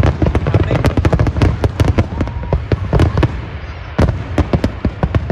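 Fireworks going off in rapid succession: dense, overlapping sharp bangs and cracks that thin out briefly about three and a half seconds in, then pick up again.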